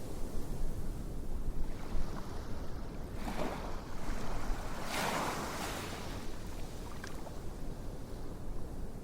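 Steady rushing noise like surf, with two brief louder swishes about three and five seconds in.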